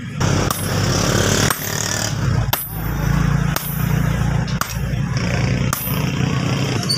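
Hammer blows on metal during axe forging, six strikes about a second apart, each with a short metallic ring, over a steady low machine drone.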